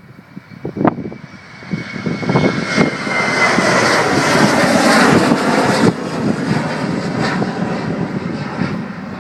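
Boeing 737-800 jet engines at take-off power as the airliner passes: the sound builds to its loudest midway, then slowly fades, with a high whine that drops slightly in pitch as it goes by.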